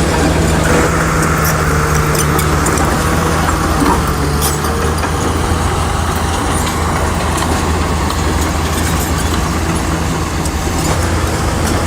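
Bulldozer's heavy diesel engine running steadily, with a higher whine rising over it for a few seconds near the start.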